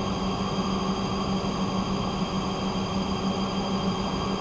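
Haas CNC lathe running: a steady machine hum with a low drone and several thin, high, steady whining tones, at an even level throughout.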